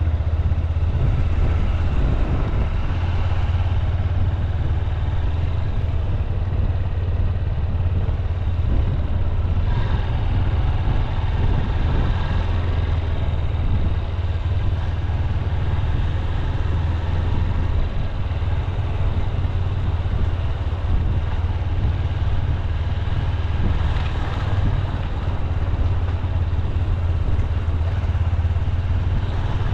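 Honda CB200X's single-cylinder engine running at an easy, steady cruising pace while riding, a steady low drone.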